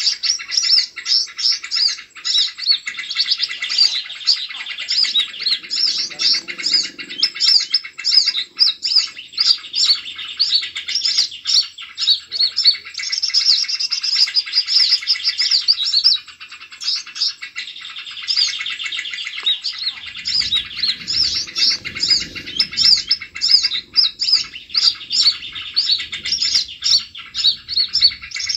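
A dense, unbroken chorus of small songbirds chirping and trilling rapidly over one another, with faint low rustling twice.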